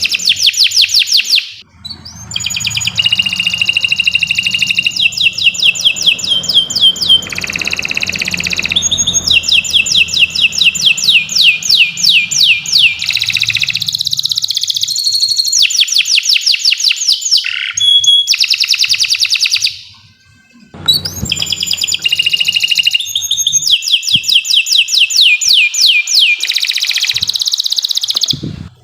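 Domestic canary singing a long, loud song: fast trills, runs of rapidly repeated falling notes and held whistled tones, breaking off briefly twice, about two seconds in and about twenty seconds in.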